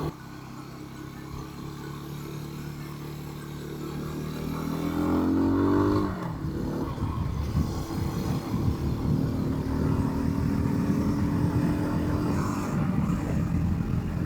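Rieju motorcycle engine under way, heard from the rider's position: it holds steady revs, then revs rise for a couple of seconds before dropping sharply about six seconds in at a gear change. After that it pulls on with a rougher, noisier sound.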